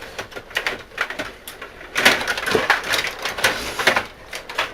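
Stiga rod table hockey game in play: quick plastic clicks and clacks of the rods being worked and the players hitting the puck and boards, in an uneven run that becomes a dense flurry about two seconds in.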